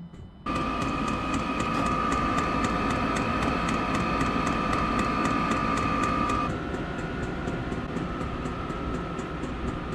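A 12 V 8 kW diesel air heater starting up. Its fuel pump ticks in a fast, even rhythm. About half a second in, the blower comes on suddenly with a steady whine and a rush of air. Around six and a half seconds in, the whine shifts pitch and the sound eases slightly as the heater settles into running.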